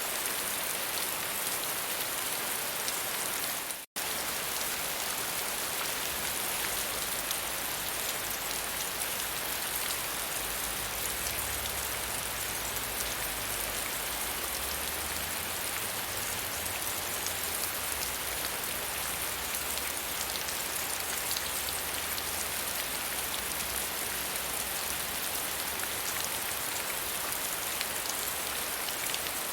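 Steady rain falling on a surface, an even dense patter of drops. The sound cuts out for an instant about four seconds in.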